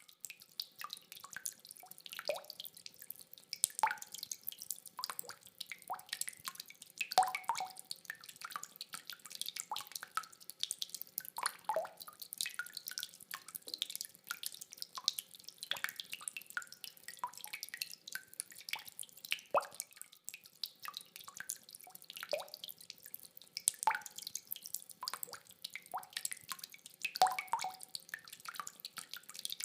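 Rain dripping: separate water drops falling irregularly, several a second, with no thunder.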